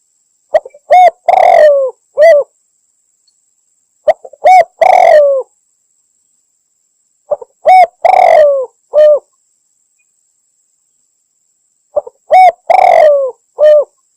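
Spotted dove (tekukur) cooing, a lure call billed as a female calling a male: four phrases about every three and a half seconds, each a few short coos, a long falling coo and a short closing coo.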